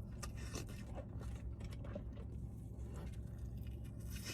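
Close-miked chewing of a soft birria burrito: a run of short, wet mouth clicks and smacks over a steady low room hum.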